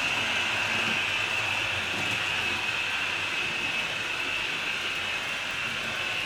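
HO scale model train running on the track: a steady whir of the locomotive motor and wheels on the rails, slowly getting quieter.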